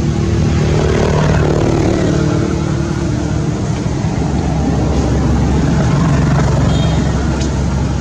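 A motor engine running steadily, with a continuous low hum.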